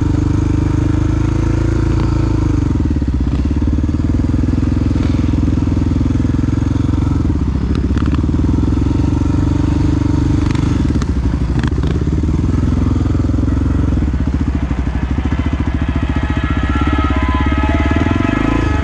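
Big single-cylinder four-stroke Honda XR dual-sport motorcycle engine running under way, its pitch dropping a few seconds in and shifting with the throttle. A couple of brief clicks come partway through.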